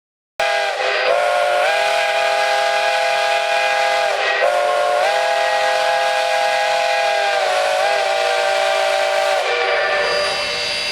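Steam locomotive whistle blowing loudly in long blasts that run almost together, its pitch sagging briefly between blasts. It stops near the end, leaving a hiss of steam.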